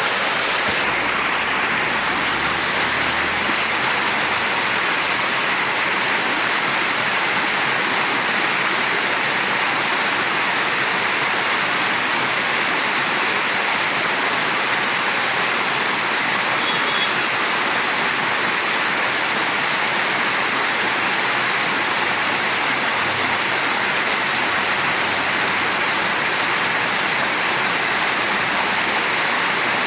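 Mountain stream rushing steadily over rocks, a constant even wash of flowing water.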